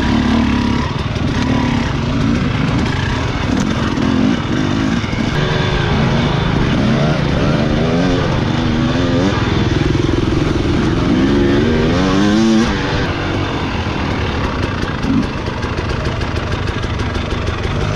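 Enduro dirt bike engine running hard and revving up and down over and over, the pitch rising and falling in quick waves about halfway through. It settles to a slightly lower, steadier drone after that.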